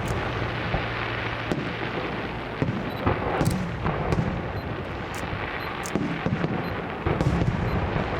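Fireworks going off: irregular sharp bangs over a continuous crackling rumble.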